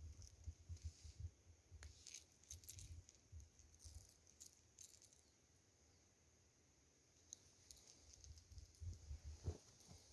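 Near silence, with faint scattered clicks and light low knocks through the first half.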